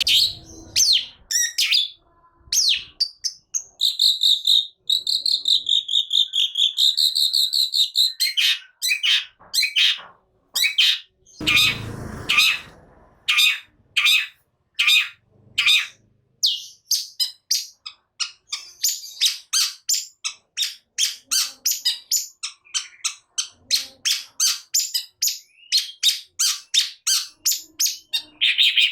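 Long-tailed shrike (cendet) in full song: a fast run of sharp, high, repeated notes, the 'nembak' shooting calls that bird keepers prize. A few seconds in there is a longer warbling phrase, and about twelve seconds in a brief rustling noise.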